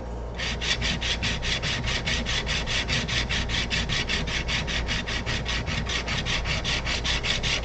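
Steel chisel being rubbed back and forth flat on a sharpening stone in quick, evenly paced strokes, a rasping scrape that starts about half a second in. The back of the rusty chisel is being flattened and polished.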